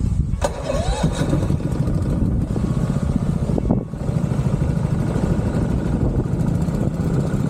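A small engine running steadily with a low, pulsing rumble that dips briefly twice.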